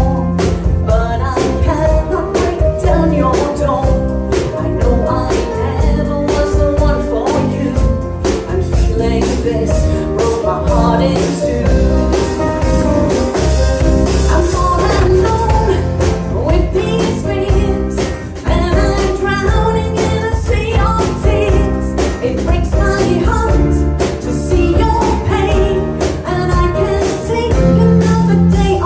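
Band music: a slow rock song with a lead vocal singing over a steady beat of drums and bass.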